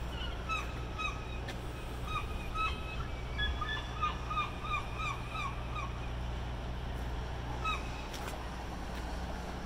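A run of short, hooked bird calls, several a second over the first six seconds and once more near the end, over a steady low hum of construction machinery engines.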